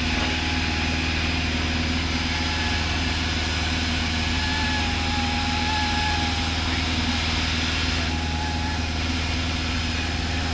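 Cessna 172's piston engine and propeller droning steadily in flight, heard as constant cabin noise.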